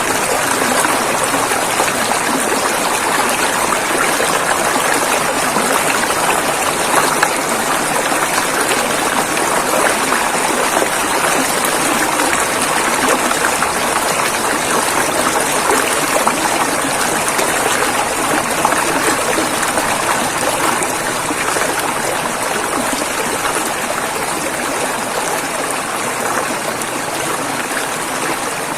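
River water flowing and rushing over rocks, a steady, dense splashing with no pauses.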